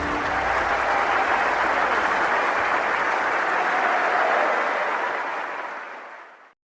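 Crowd applauding, a steady clapping that fades away near the end.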